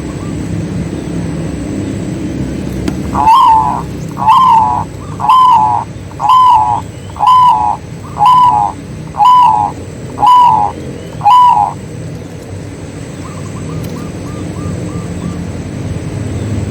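Zebra dove (perkutut) calling: nine loud, evenly spaced cooing notes about one a second, followed by a faint run of smaller calls, over a steady low rumble.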